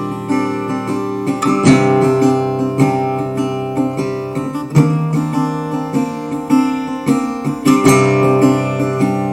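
Acoustic guitar music, with notes and chords plucked in a steady run.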